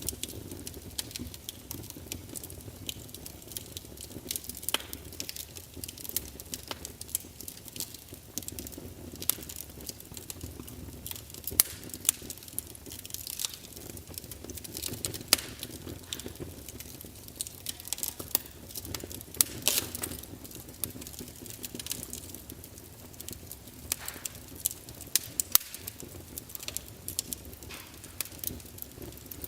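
Fire crackling: irregular sharp pops and snaps over a soft, steady low rush.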